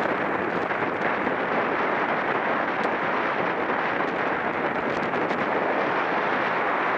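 Steady wind noise buffeting the microphone of a camera moving at speed on a racing bicycle.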